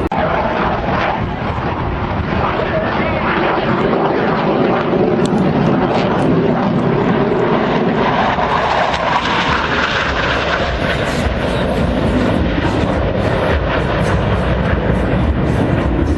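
Loud, steady engine noise of an airplane flying.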